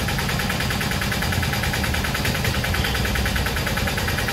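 Maruti Suzuki S-Presso's three-cylinder petrol engine idling steadily, with an even, rapid pulse.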